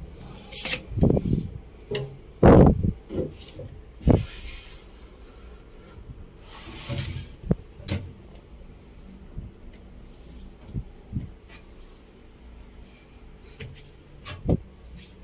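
Rubbing and wiping on a new refrigerator's surfaces, broken by a few knocks and handling thumps, the loudest about two and a half seconds in.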